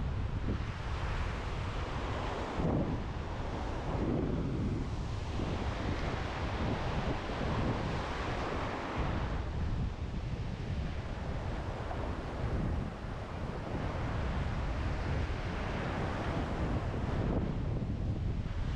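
Strong wind buffeting the microphone in gusts, with surf breaking on the beach beneath it.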